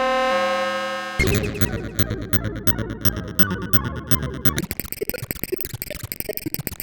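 Roland System-100 software synthesizer presets being auditioned. A held buzzy pitched tone lasts about a second, then cuts to a noisy patch of rapid repeated hits. A little past the middle this changes to a faster, evenly pulsing sound.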